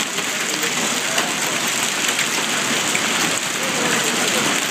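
Hail pelting down, a steady dense clatter of countless small impacts.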